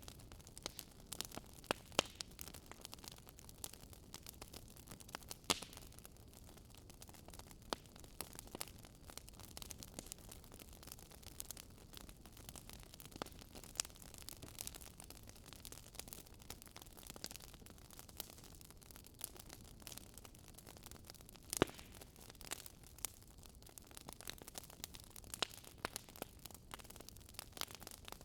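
Wood fire burning, with a low steady hiss and irregular sharp crackles and pops as the wood burns, a few louder pops standing out.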